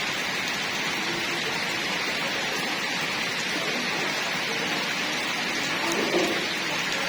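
Heavy rain falling steadily in a continuous downpour.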